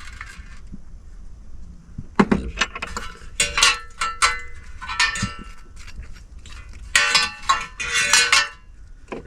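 Dishes and cutlery clinking and clattering as they are handled, in several bunches of knocks with a ringing metallic tone, loudest about two seconds from the end.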